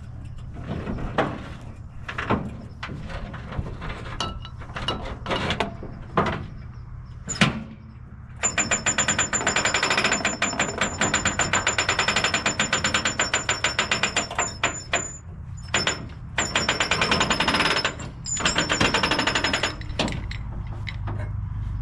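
Boom winch on a truck bed being cranked to wind its cable in. It starts with scattered metal clanks and clicks, then about eight seconds in the ratchet clicks fast and evenly with a high metallic ring for several seconds. After two brief pauses it clicks on in two shorter runs.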